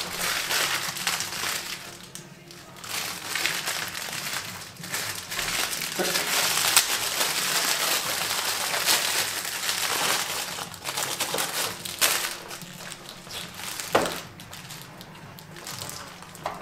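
Small plastic bags of door-fitting parts crinkling and rustling as they are picked open and handled, with a few sharp clicks.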